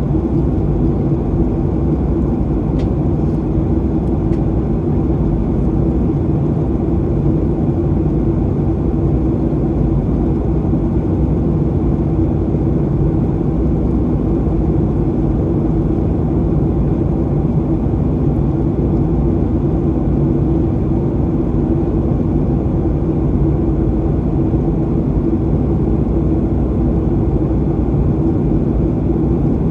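Steady cabin drone inside a Boeing 737-800 on final approach: the CFM56 turbofans' hum with a couple of steady low tones over an even rush of airflow noise.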